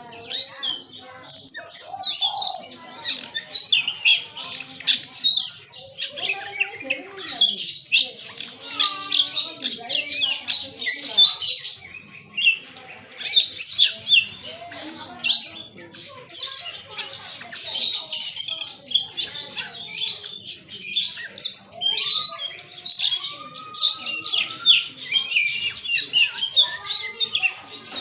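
Oriental magpie-robin (kacer) singing a long run of fast, varied phrases of high chattering and whistled notes with hardly a pause, delivering its repertoire of calls mimicked from other birds.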